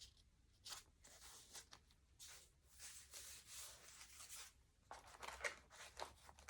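Faint rustling of paper as the pages of a journal made from glued magazine pages are handled and turned, in short soft scrapes.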